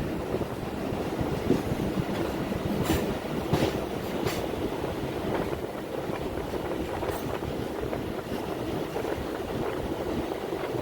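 Train running along the track: a steady rumble with wheels clicking over the rail joints, a few sharp clicks between about 3 and 4.5 seconds in and again near 7 seconds.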